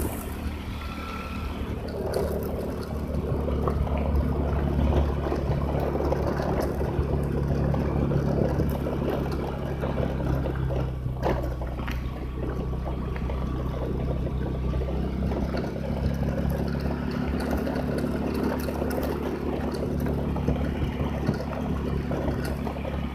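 A vehicle engine running steadily at a constant drone, with a haze of noise over it and a brief click about eleven seconds in.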